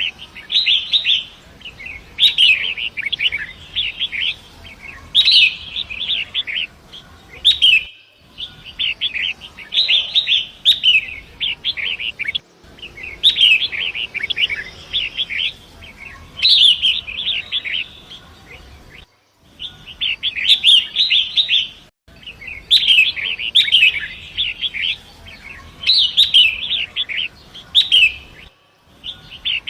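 Long-tailed shrike (pentet) singing: phrases of rapid chattering notes, each about a second long, repeated every few seconds over a faint steady rush of flowing water.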